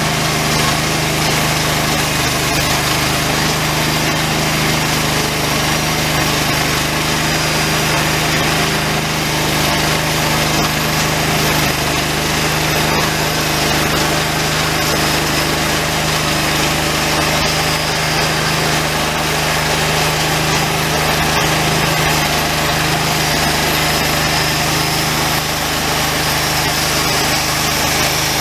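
Homemade engine-driven band sawmill running at a steady speed, its blade sawing through a longleaf pine log; a constant engine hum under the noise of the cut, with no change in pitch.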